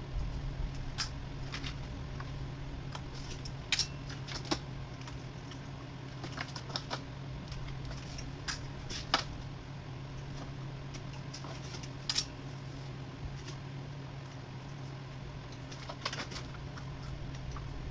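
Scattered light clicks and clinks of hand tools and metal parts being handled, irregular and a few seconds apart, over a steady low hum.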